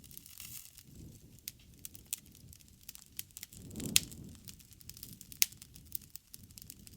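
Wood bonfire crackling: irregular sharp pops and snaps over a low soft rumble of the flames, with a louder pop and a surge of flame about four seconds in and another sharp snap soon after.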